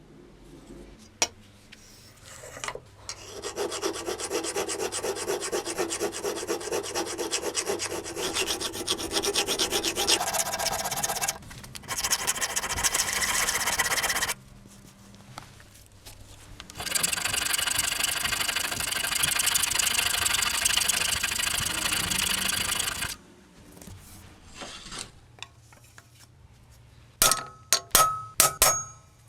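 A tool rasping against the knife in three long runs of several seconds each, followed by a few sharp metallic clinks near the end.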